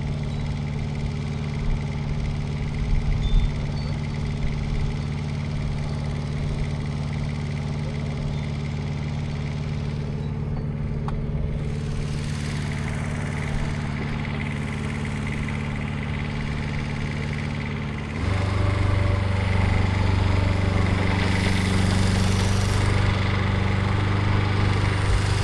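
An engine running steadily at low speed, then stepping up to a faster, louder run about eighteen seconds in.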